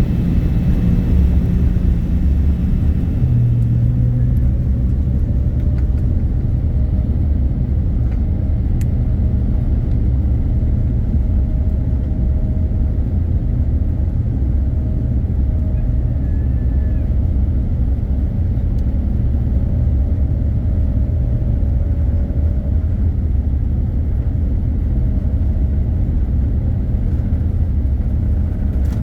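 Boeing 787-9 on its takeoff roll, heard from inside the cabin: a steady, loud low rumble of the jet engines and the wheels on the runway. A faint engine tone rises slightly a few seconds in and then holds.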